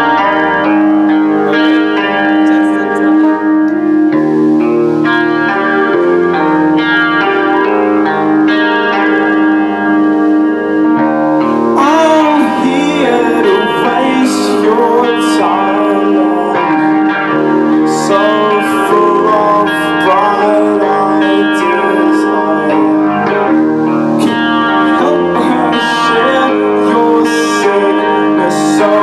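Live rock band playing: sustained guitar chords ring out alone at first, then drums and cymbals come in about twelve seconds in and the full band plays on.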